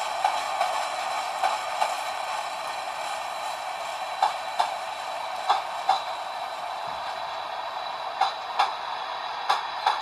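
Freight train cars rolling past with a steady rumble of steel wheels on rail. Through it come sharp clicks in pairs, as each car's wheelsets cross a rail joint, with a pair every one to three seconds.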